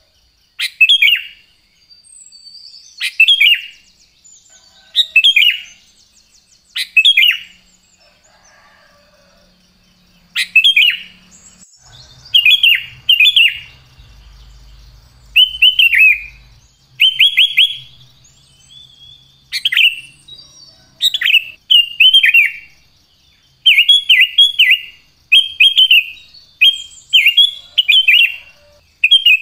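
Sooty-headed bulbul (kutilang) singing: loud, short whistled phrases repeated about every two seconds at first, then coming faster in quick runs of two to four notes from about halfway through.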